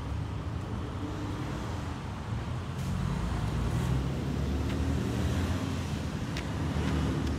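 Steady low rumble of road traffic, growing a little louder after a couple of seconds.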